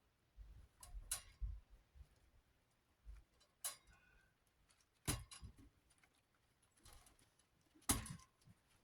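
A spare guard clip being worked onto the rim of a Galaxy 9-inch desk fan's guard: a few separate sharp clicks and knocks with low handling rumble between, the loudest click near the end.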